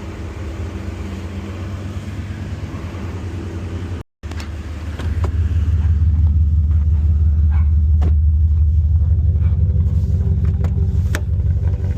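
Old Jeep's engine running, heard from inside the cab as a steady low rumble. It breaks off suddenly about four seconds in and comes back louder and deeper.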